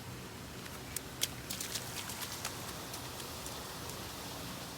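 Steady rain falling, with a quick run of sharp taps about a second in.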